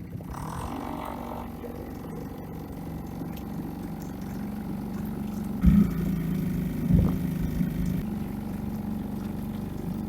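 Boat outboard motor running at a steady speed under way. Two dull thumps stand out a little past halfway.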